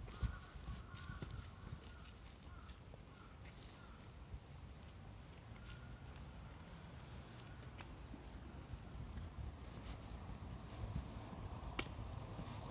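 A steady, high-pitched chorus of autumn insects singing, with a few lower calls breaking in over the first few seconds and a low rumble underneath.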